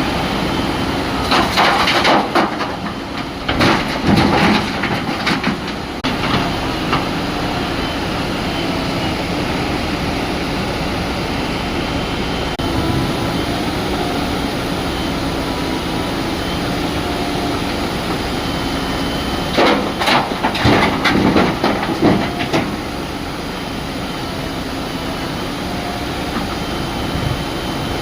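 A heavy diesel engine runs steadily, with two spells of loud crashing and clattering as boulders drop into a steel tipper body: a few seconds in, and again around twenty seconds in.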